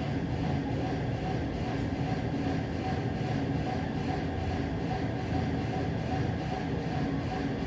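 A steady low rumble with an even level and a faint steady tone above it. No distinct bangs or thuds stand out.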